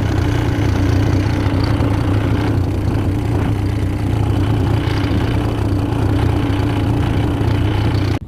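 A fishing boat's engine running steadily under way, a loud, even drone with a low hum.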